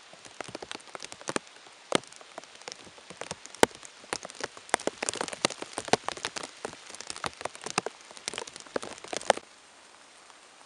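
Rain falling, with many irregular sharp taps of individual drops hitting a surface over a soft steady hiss. The pattering cuts off abruptly about a second before the end.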